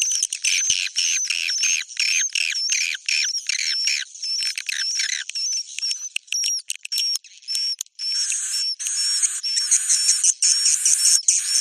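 Swiftlet 'inap' (roosting) lure call: recorded edible-nest swiftlet chirps repeating about twice a second over a high, wavering whistle-like tone, the kind of sound played to draw swiftlets in to roost. The chirps thin out about halfway through and come back denser near the end.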